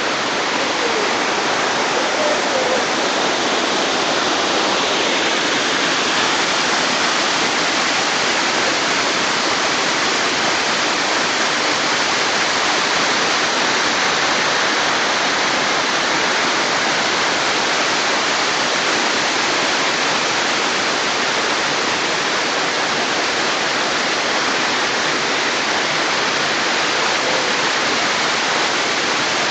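Tiered waterfall pouring and splashing: a steady, loud rush of falling water.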